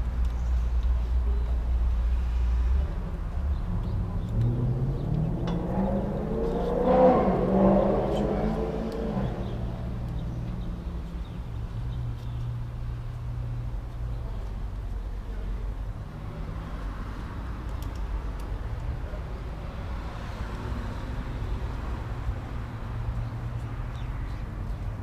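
Motor vehicle sound: a steady low hum, with one louder engine note that rises and falls in pitch about seven seconds in.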